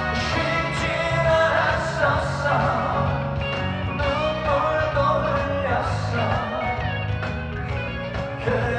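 Live trot band music: a melody line over bass and a regular drum beat.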